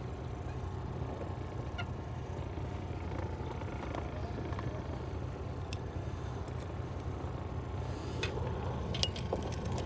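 Boat motor running steadily at low speed, a low even hum, with a few light clicks near the end.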